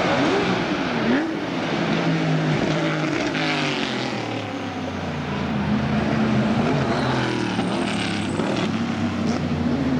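GT-class race car engines running hard past the track edge, their notes falling and climbing through gear changes and lifts. About a second in, one engine's pitch drops sharply and then rises again as it accelerates, with more than one car's engine heard at once.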